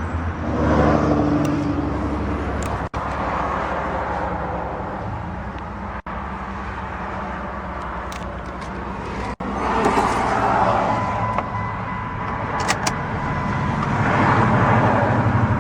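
Steady vehicle noise: a low hum under a broad hiss, broken by brief dropouts about every three seconds.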